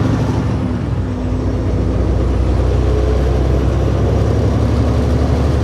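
Truck engine running steadily under way, with road noise, a constant low drone with no break.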